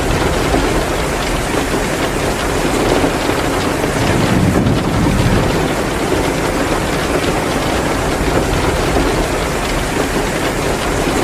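Steady heavy rain falling as a dense, even downpour, with small crackles of a burning wood fire scattered through it.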